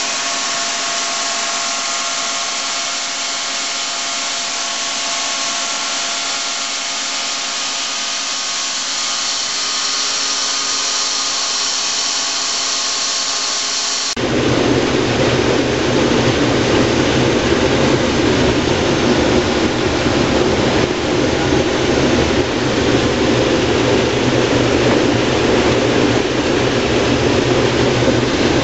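Case IH Axial-Flow combine running while harvesting corn: first a steady whine of many fixed tones, then, after a sudden change about halfway through, a louder, deeper running rumble.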